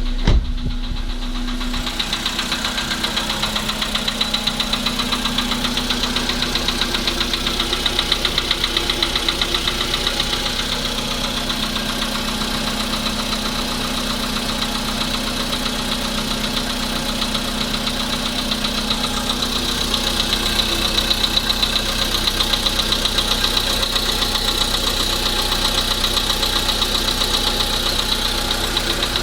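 Volkswagen Polo Sedan's four-cylinder petrol engine idling with a rapid, steady knock, after a brief thump at the start. The knock is the fault the car is being recorded for.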